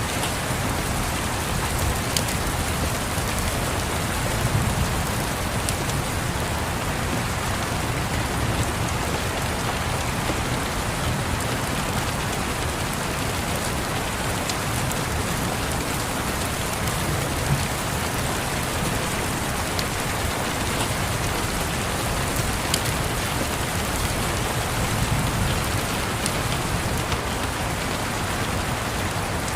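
Steady rain tapping, with now and then a sharp crackle from a wood fire and a few soft low rumbles of distant thunder.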